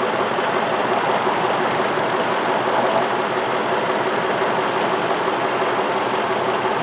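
A 2003 Infiniti M45's 4.5-litre V8 engine idling steadily. The engine is being diagnosed for a random-cylinder misfire (code P0300).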